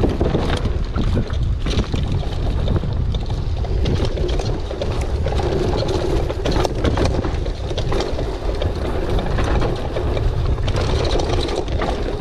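Mountain bike descending a wet, slippery dirt trail: wind buffeting the microphone and tyres running over the ground, with frequent sharp knocks and rattles from the bike over bumps.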